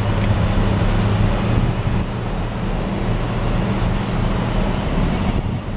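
Heavy machinery's engine running steadily with a low, even hum under a broad rushing noise; the higher part of the noise drops away near the end.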